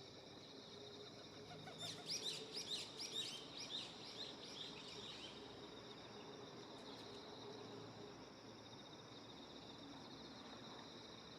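A small songbird sings a quick run of high, falling notes for about three seconds, a couple of seconds in, over a steady chorus of insects trilling.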